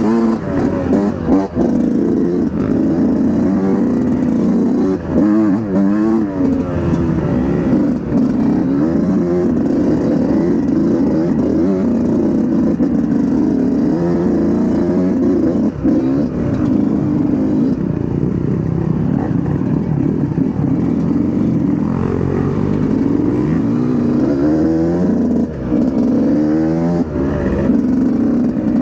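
Dirt bike engine revving up and down with constant throttle changes, its pitch rising and falling, with brief dips when the throttle is closed.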